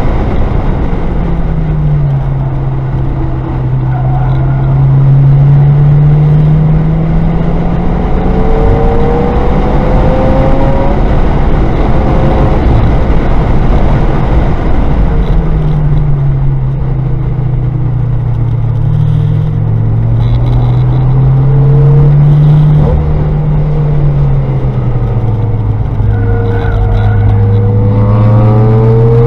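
Car engine heard from inside the cabin during hard track driving, its pitch rising and falling several times as the driver accelerates and lifts through the corners, over steady road and wind noise.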